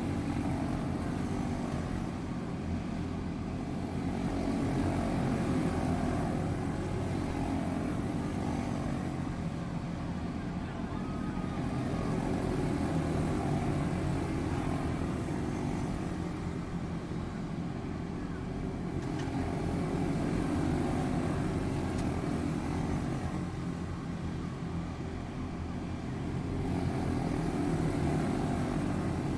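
A pack of quarter midget race cars with single-cylinder Briggs & Stratton Animal engines running at racing speed around a small oval. The engines make a continuous drone that swells and fades about every seven seconds as the field comes round past the microphone.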